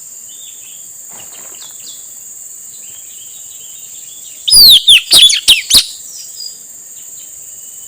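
Male blue-rumped parrot (puling, nuri tanau) giving a quick series of five or six sharp, high, downward-slurred whistled calls about halfway through, with fainter calls before, over a steady high-pitched insect drone.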